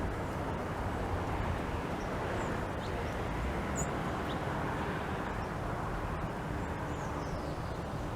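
A steady low rushing background noise, with a few brief, faint high bird chirps scattered through it, a handful near the middle and one or two later.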